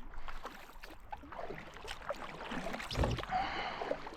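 Kayak paddles dipping and splashing in river water, in irregular strokes, with one dull low thump about three seconds in.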